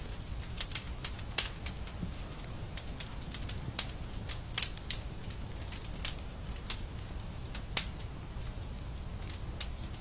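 Wood fire crackling in a fireplace: irregular sharp pops and snaps, a few sharper ones standing out, over a low steady rumble of the flames.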